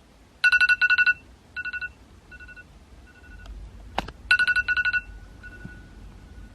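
Electronic phone-style ringtone: two bursts of rapid trilling beeps, each trailing off in fainter echoing repeats, with a sharp click about four seconds in.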